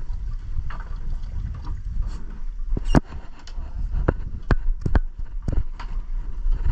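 Sharp knocks and thumps in the boat as a freshly netted walleye is brought aboard and handled, starting about three seconds in and coming irregularly, one or two a second, over a steady low rumble of wind on the microphone.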